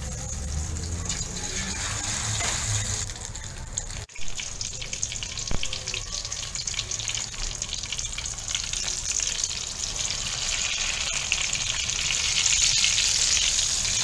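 Egg-battered eggplants frying in hot oil in an aluminium wok: a steady sizzle with dense crackling that grows louder over the last couple of seconds. There is a brief dropout about four seconds in and a single click a moment later.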